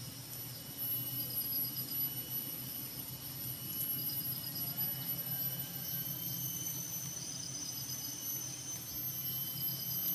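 Forest insects singing: several steady, high-pitched whining tones with a rapidly pulsing chirp that starts and stops a few times.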